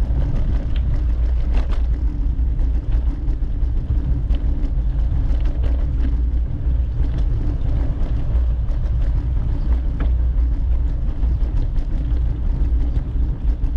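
Steady low wind rumble on the microphone during a bicycle ride, with scattered faint clicks and ticks.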